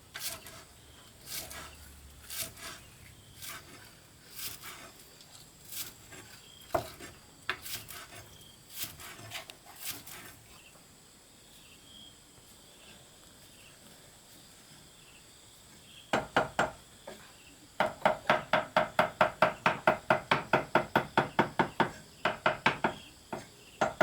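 Scattered sharp knocks, then after a pause a fast, even run of chopping strokes, about four a second, a blade striking wood.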